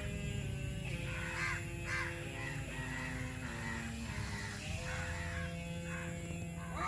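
Crows cawing: a series of harsh caws at about two a second.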